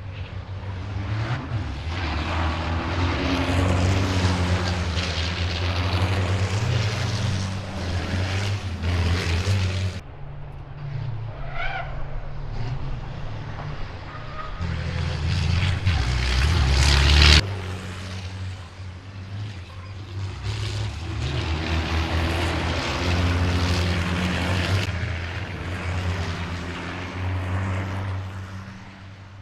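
Racing trucks' diesel engines running hard on track, the sound swelling and fading as trucks go by, with sudden jumps in the sound about ten seconds in and again past halfway where the shots change.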